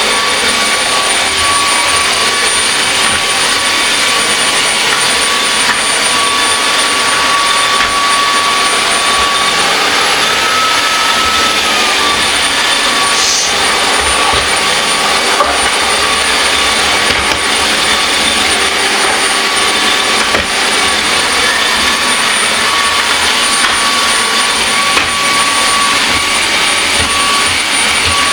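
UWANT D100 wet/dry vacuum mop running steadily across a floor, its motor giving a high whine. About ten seconds in the whine steps up in pitch for a couple of seconds, then settles back.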